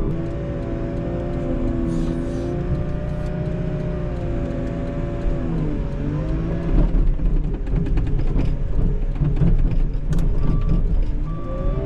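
Cat 906 wheel loader's diesel engine running with a steady drone; about halfway through, the engine note dips, then the sound turns louder and rougher with scraping and clattering as the loader works the snow.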